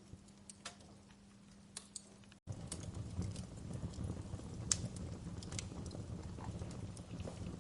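Fireplace fire crackling, with scattered sharp pops and snaps. About two and a half seconds in the sound drops out for an instant and comes back louder, with a low rumble under the crackles.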